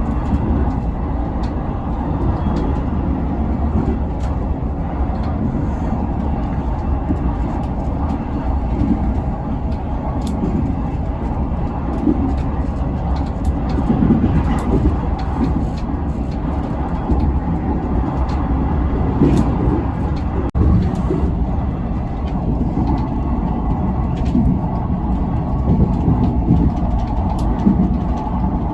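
Train running on the rails: a steady loud rumble with occasional faint clicks, broken once by a brief dropout about two-thirds of the way through.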